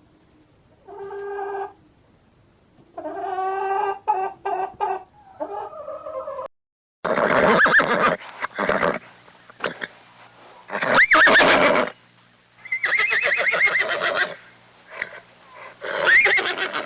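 Horse neighing, four loud whinnies with a wavering pitch in the second half. Before that, a few shorter, lower calls of another animal end in an abrupt cut.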